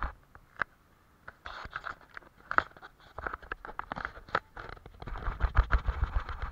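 Paintbrush working on paper: short, irregular scratchy strokes and light taps in clusters, with a pause of about a second near the start.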